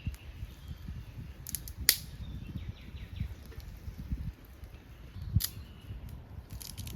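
A few sharp, scattered clicks and knocks, the loudest about two seconds in and again about five and a half seconds in, over a steady low rumble.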